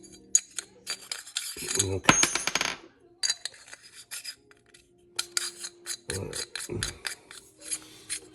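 Metal gun parts clicking, clinking and scraping as an AR-15 lower receiver, buffer tube and castle nut are handled and turned on the bench. It comes as a run of quick sharp clicks, with a short stretch of rubbing about two seconds in.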